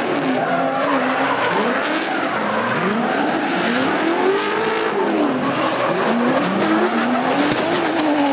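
Drift car engine revving up and down repeatedly as it slides, with the tyres skidding.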